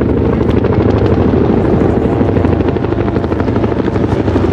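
Loud military helicopter rotors, a fast steady chop of blades over a continuous engine drone.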